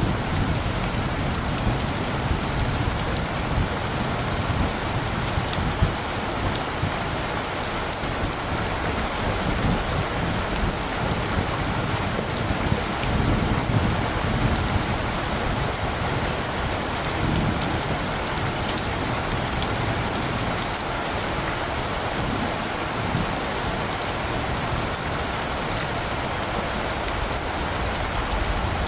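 Steady rain falling on surfaces, with many close drop taps, and a low rumble of light thunder now and then.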